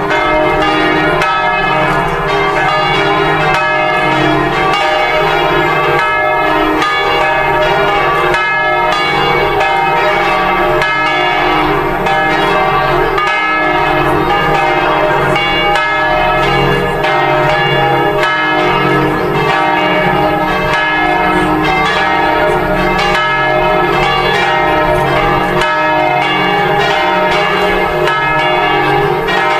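Church bells ringing in a continuous peal, several bells struck in quick succession so that their tones overlap and keep ringing.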